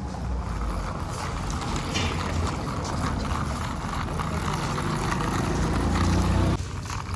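Tractor diesel engine running under a heavy load, growing slowly louder, then dropping off sharply about six and a half seconds in.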